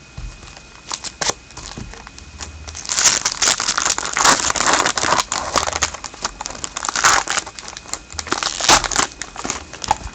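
Foil wrapper of a hockey card pack crinkling and crackling as it is torn open and handled, busiest from about three seconds in until near the end.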